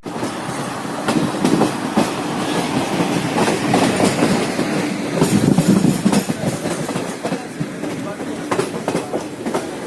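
Passenger train of LHB coaches running past, its wheels clattering in quick clicks over the rail joints with a steady rumble underneath.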